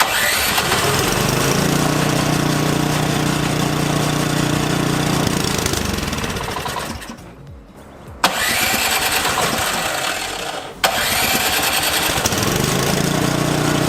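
Snowblower engine being started with its plug-in electric starter after priming, a cold start after a year in storage. It cranks in three goes: the first begins abruptly and dies away about seven seconds in, a second starts about eight seconds in, and a third about eleven seconds in runs on.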